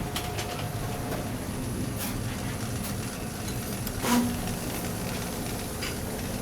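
Steady low drone of running plant machinery, with a few short knocks, the loudest about four seconds in.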